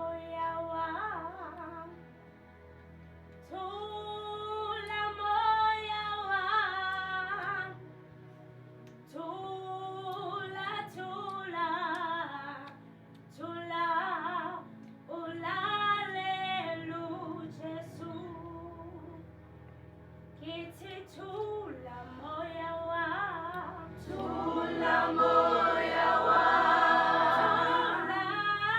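Youth choir singing a gospel song in phrases separated by short pauses, over steady low sustained accompanying notes. The singing grows fuller and louder about four seconds from the end.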